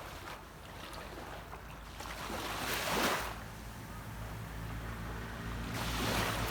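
Waves washing onto a beach, two surges of surf coming in, one about three seconds in and one near the end, over the steady low hum of a distant boat's engine.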